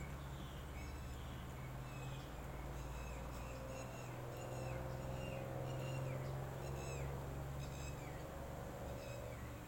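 An animal's repeated short, high calls, about one or two a second, over a steady low hum.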